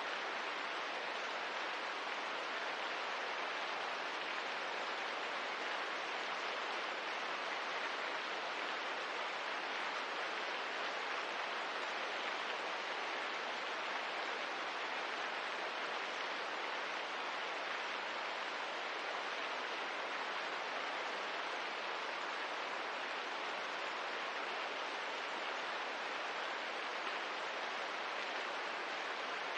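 Steady rain hiss, even and unbroken, with no distinct drops or crackles standing out.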